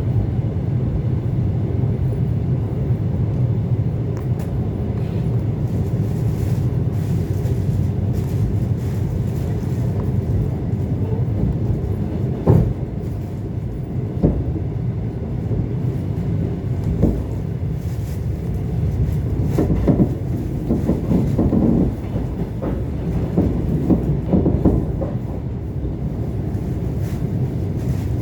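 ET2 electric multiple unit running along the line: a steady low rumble, with occasional sharp knocks of the wheels over rail joints that come closer together past the middle.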